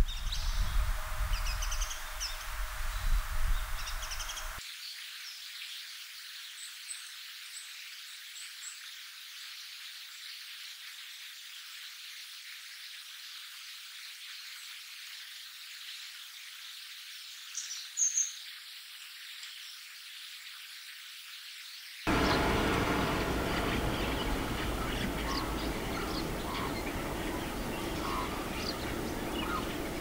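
Three bird recordings in turn. First a Japanese white-eye's short chirps over a low rumble. About five seconds in, a cut to a quiet stretch of long-tailed tits (the white-faced Hokkaido subspecies) giving a few faint, thin, high calls, with one louder call near 18 seconds. About 22 seconds in, white-cheeked starlings calling over one another, louder and busier.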